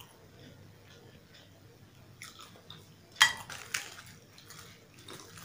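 Close-miked eating sounds: quiet chewing, then about three seconds in a loud crisp crackle, and another half a second later, as a puffed, deep-fried puri is torn apart by hand.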